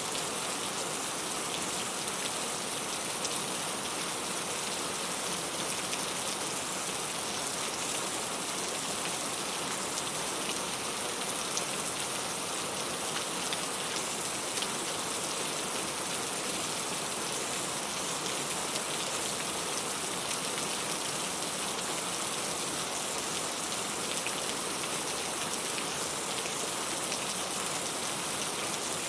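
Steady rain falling on a surface, a dense hiss of drops with fine pattering, unchanging throughout.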